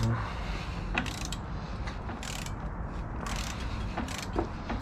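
Hand ratchet wrench being worked on a rusted bolt, clicking in several short runs as the handle swings back and forth.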